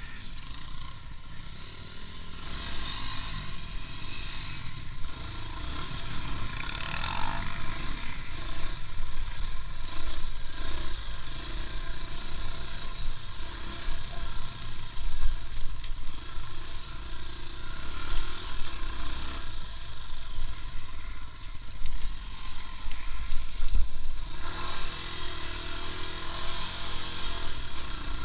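A moving vehicle's continuous low rumble of engine and road noise, its loudness jumping up and down unevenly.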